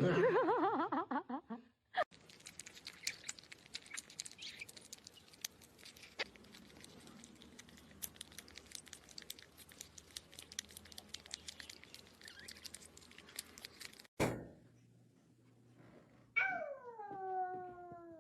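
Cat sounds: a loud wavering yowl at the start, then a long stretch of faint scattered clicks and taps. Near the end comes a single meow that falls in pitch.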